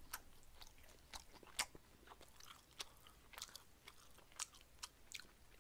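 Faint chewing of marinated grilled pork: a scattering of small, irregular mouth clicks and smacks.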